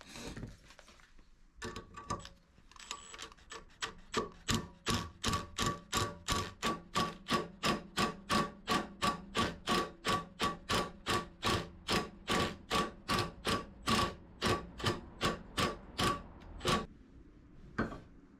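A hammer striking metal in a steady run of ringing blows, about three a second, that stops a little before the end, with a few separate strikes before it and one more just after.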